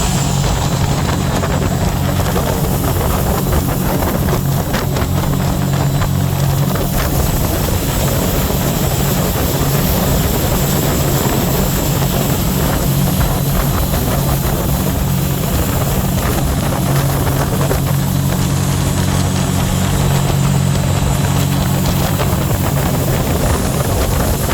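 Scarab 165 ID jet boat's Rotax 1503 4-TEC three-cylinder engine running steadily with a constant low drone, under a steady rushing noise.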